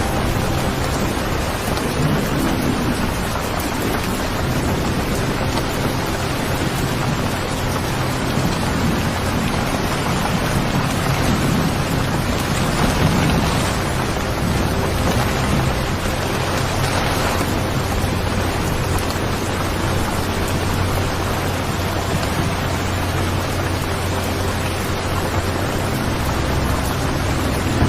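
Steady heavy rain with low rumbling thunder, swelling slightly louder around the middle.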